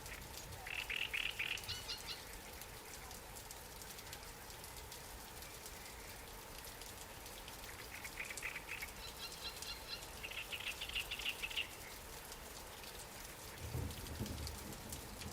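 Light rain falling steadily on water and lily pads, a soft hiss with many small drop ticks. A bird gives rapid trilling calls twice, about a second in and again from about eight to eleven seconds in. A low rumble comes near the end.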